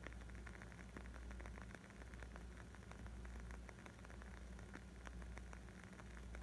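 Wood fire crackling: a dense, irregular run of small sharp pops and snaps over a low steady rumble.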